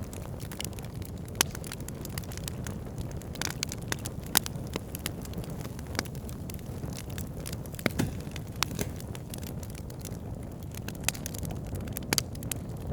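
Wood campfire burning: irregular sharp crackles and pops over a low steady rumble, with a few louder pops scattered through.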